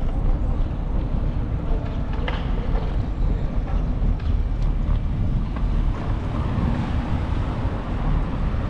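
Wind buffeting the microphone of a camera on a moving bicycle, a steady low rumble with a faint tick or two.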